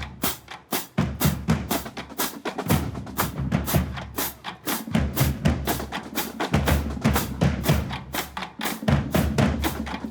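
Marching band drumline playing a cadence: rapid snare drum strikes over booming bass drums.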